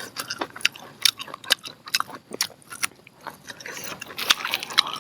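Close-up chewing and biting of grilled corn on the cob: irregular crisp, wet clicks of kernels being bitten off and chewed, a few each second, with a louder stretch near the end.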